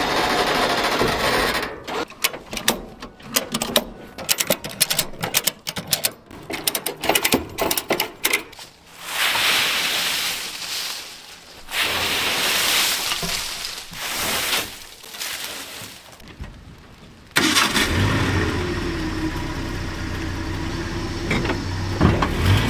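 A run of separate workshop sounds: rapid clicking and tapping, then hissing noise, then from about 18 seconds in a car engine running steadily.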